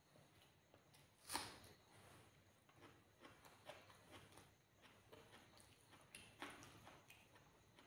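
Faint eating sounds of rice and curry eaten by hand: quiet chewing and mouth clicks. Scattered soft clicks run throughout, the sharpest about a second in and another about six seconds in.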